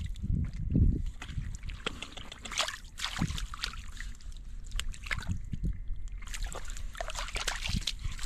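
Water splashing and sloshing in irregular bursts, with a few low thuds in the first second.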